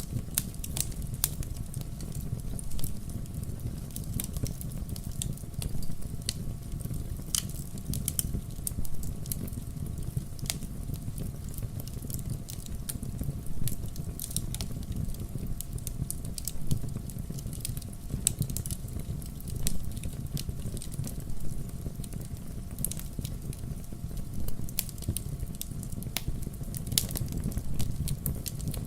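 Wood fire burning in a fireplace: a steady low rumble of the flames with frequent irregular sharp crackles and pops of burning logs.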